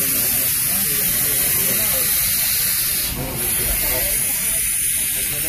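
Riding aboard a moving steam train: a steady loud hiss over a low rumble, with voices faint underneath. The hiss dips briefly about three seconds in.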